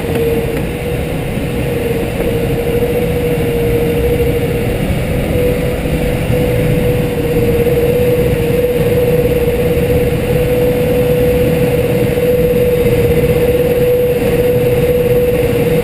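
Light aircraft's piston engine and propeller droning steadily in cruise, heard from inside the cockpit, with a constant tone and no change in power.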